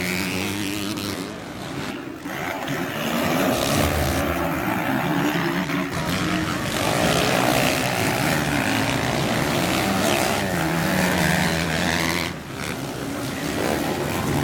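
Motocross dirt bike engines running hard, their pitch rising and falling with throttle and gear changes. The sound drops briefly about two seconds in and again near the end.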